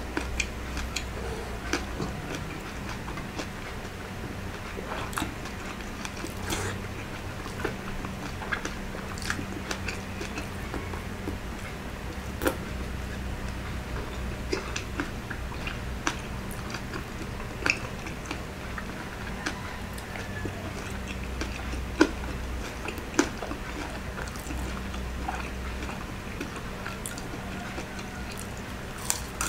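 Close-up chewing and biting of crispy fried pork belly (lechon kawali) with rice: wet mouth sounds broken by scattered sharp crunches, over a steady low hum.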